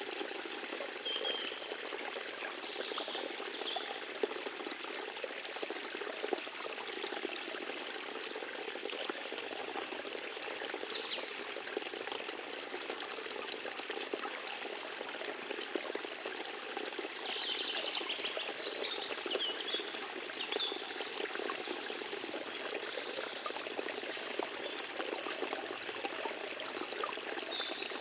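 A small forest stream trickling and burbling steadily over its bed, with a few faint high chirps now and then.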